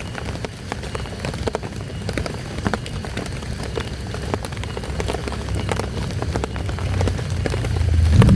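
Heavy rain falling, with many separate sharp drop hits over a steady patter; a low rumble builds near the end.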